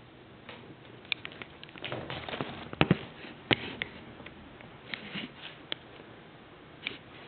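Tiny kittens scuffling and pattering about on a hard floor: irregular soft scuffs and scattered sharp taps, busiest a couple of seconds in, with two louder ticks.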